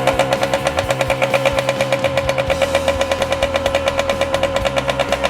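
1979 Kawasaki KM100's two-stroke single-cylinder engine running steadily at a fast idle, with a rapid, even exhaust beat. It idles high after being revived from stale fuel with a hand-cleaned carburettor.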